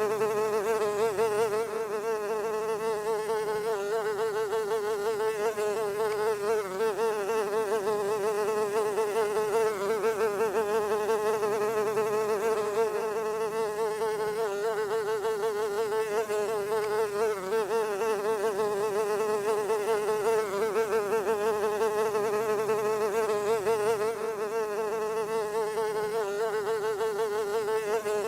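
A fly buzzing continuously, one steady drone whose pitch wavers slightly.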